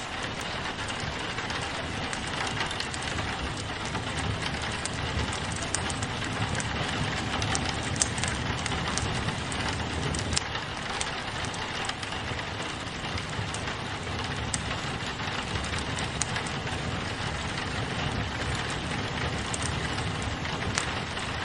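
Steady rain on a window, mixed with a wood fire crackling, with irregular sharp pops and snaps throughout.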